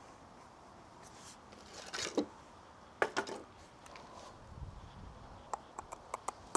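Light knocks and clicks of wooden branch pieces being handled and fitted, with a quick run of small sharp ticks near the end.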